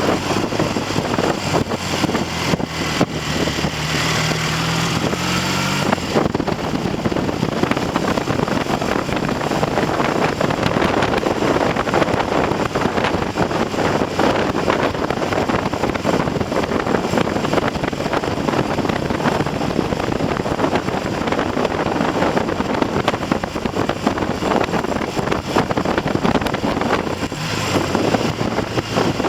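Triumph TR6 650 cc parallel-twin motorcycle engine running while being ridden, its note heard plainly for the first few seconds and changing pitch about four seconds in. After about six seconds, heavy wind noise on the microphone covers it, and the engine comes through faintly again near the end. The engine is being run in after a top-end rebuild with new pistons and rings.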